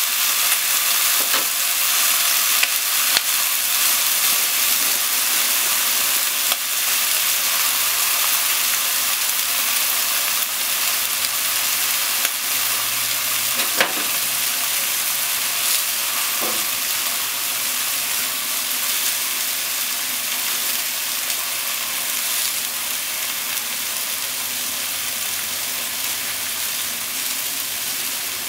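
Sliced potatoes and onions frying in oil in a frying pan: a steady sizzle with scattered small pops, one sharper pop about halfway, slowly getting a little quieter.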